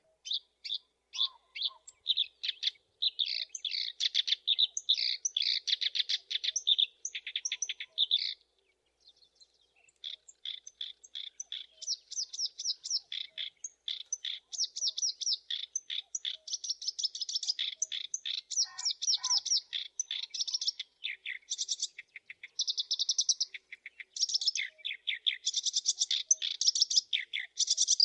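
Black-browed reed warbler singing: a long, chattering song of rapid, repeated short high notes, with a brief pause about eight seconds in.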